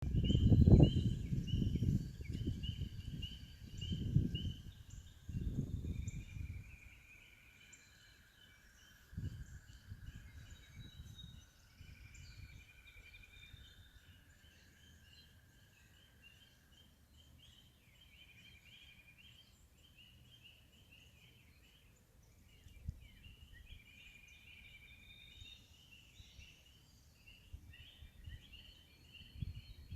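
A chorus of frogs, many overlapping high trilling calls repeating steadily. Loud low rumbles on the microphone fill the first several seconds and come back briefly about nine seconds in.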